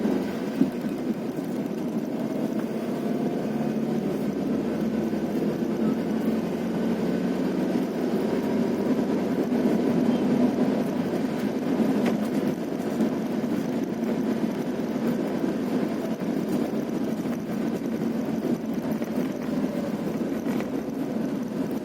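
A vehicle engine running steadily on the move, with road noise, and a single short knock about half a second in.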